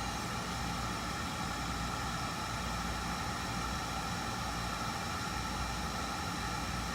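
Steady mechanical hum with a low rumble and several faint, steady high whining tones, unchanging throughout.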